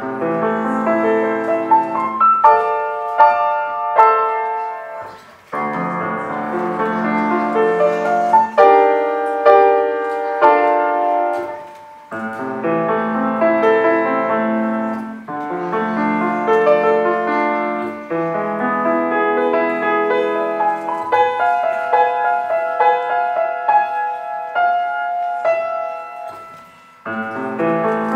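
Solo piano playing a piece in phrases, the sound dipping briefly between phrases about every six seconds.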